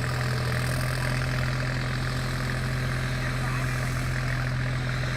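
Deutz-Fahr 50 hp tractor's diesel engine running at a steady, even speed with a low hum that does not change.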